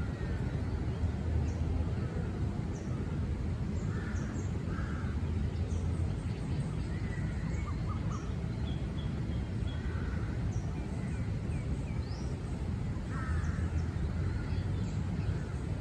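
Several birds calling and chirping, with short rough calls repeating every few seconds and thin high chirps scattered between them, over a steady low rumble.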